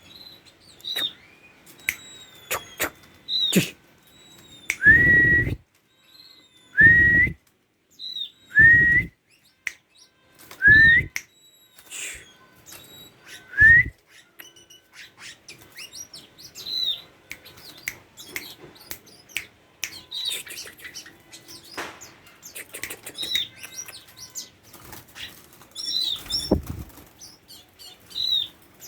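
Tame oriental magpie-robin giving short, hooked whistled notes, repeated every second or two. Between about 5 and 14 seconds in, five louder rising whistles come, each with a low thump or rumble under it.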